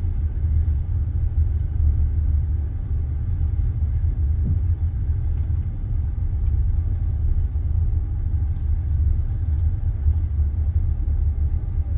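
Steady low rumble inside a passenger train carriage, with no distinct wheel clicks.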